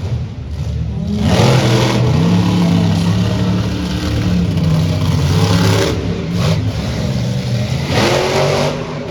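Monster truck engine running loud and revving, with several sharp surges in power.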